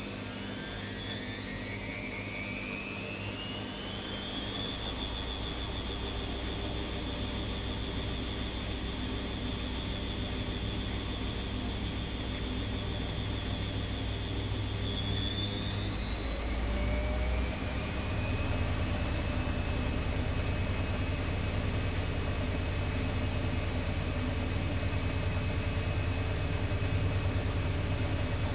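Atlant 70C1010 washing machine's drum motor spinning up for the spin: a whine rises in pitch over the first few seconds and holds, then rises again to a higher speed about halfway through and holds there, over a steady low hum.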